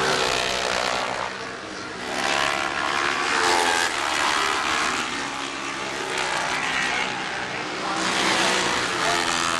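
Racing motorcycle engines at full throttle passing by, revving up through the gears, swelling louder twice as bikes go past.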